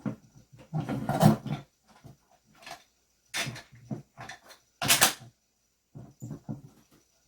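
Irregular knocks and clicks of pen parts being handled and fitted together during assembly, with a few louder knocks and a quiet pause between each.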